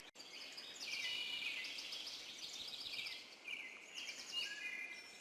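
Songbirds chirping and singing, several overlapping calls with a few quick trills.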